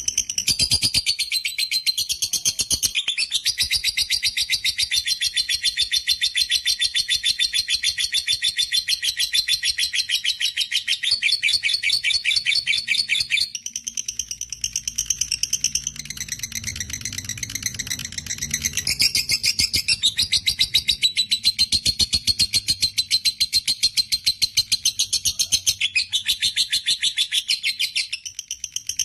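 Lovebird giving a long 'ngekek': a very fast, unbroken chattering trill of shrill high notes. It softens for several seconds around the middle, then picks up again at full strength.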